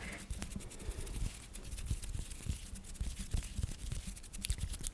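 Fast ASMR tapping and scratching close to the microphone: a dense, irregular run of light taps, clicks and scratches with soft low thuds under them.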